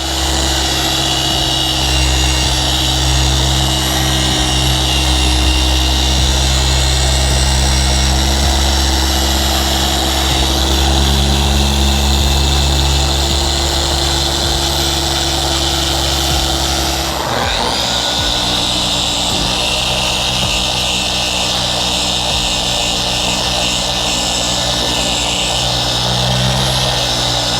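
Electric paint polisher running steadily while buffing out scuffs and paint transfer on an RV's side. Its pitch dips briefly about two-thirds of the way through, then steadies again.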